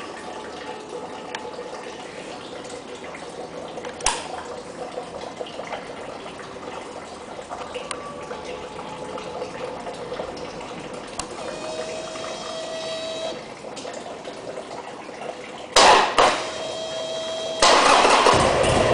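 Buell XB12Ss motorcycle's 1203 cc V-twin being started: after a long stretch of low background hiss, the starter is pressed twice briefly about 16 seconds in, and the engine catches and runs loudly about a second and a half later.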